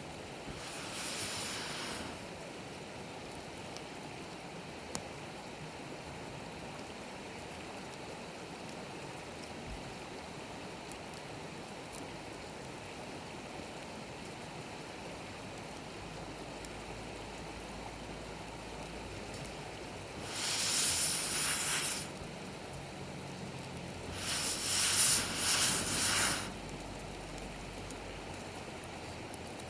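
A wood campfire burning steadily with a faint crackle, broken three times by loud rushes of hissing, airy noise lasting one to two seconds each: about a second in, and twice in the last ten seconds.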